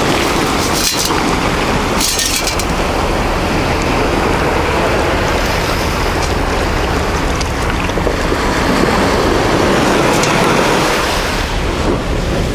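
Wind buffeting the microphone over the steady rush of surf, with two brief scraping sounds about one and two seconds in.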